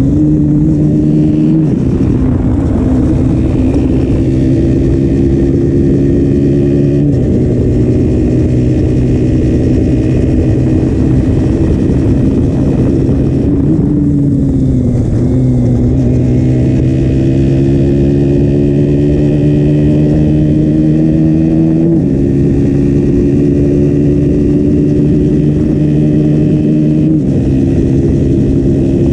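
KTM Duke 125's single-cylinder four-stroke engine through its stock exhaust, running under way. Its pitch climbs slowly and drops suddenly several times as gears are changed, with a brief dip and pick-up about halfway through.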